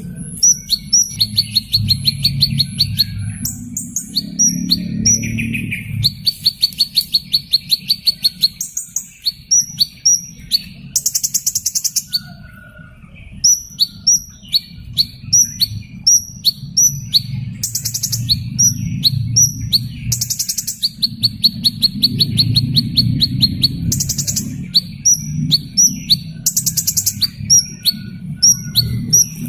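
Hummingbird calling: repeated short, high chirps broken up by rapid buzzy trills of about two seconds each, over a low steady hum.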